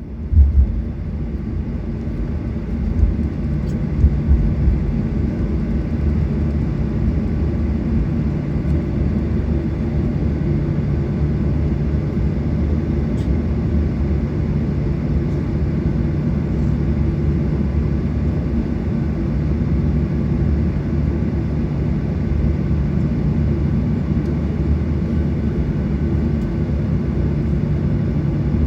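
Cabin noise inside a Boeing 737-800: a steady low rumble with a constant hum from its CFM56 jet engines, with a few thumps in the first few seconds.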